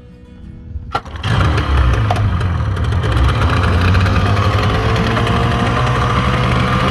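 A Yamaha 30 hp two-stroke outboard motor comes in suddenly about a second in and then runs steadily and loudly.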